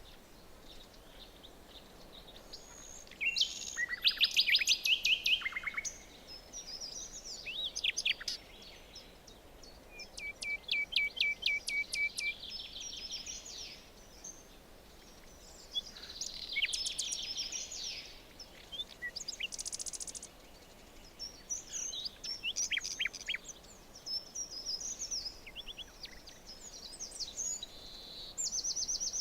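Forest birdsong: several songbirds singing and calling in turn, with quick chirps and fast trills, over a faint steady background hiss.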